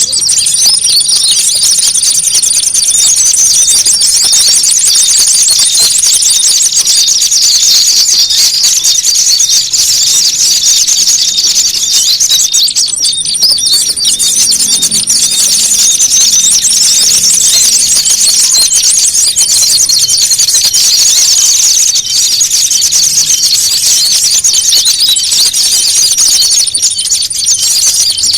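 Bird-lure recording of many small songbirds calling at once: a loud, dense tangle of rapid high chirps and twitters, with a thin high whine coming and going over it. It starts abruptly.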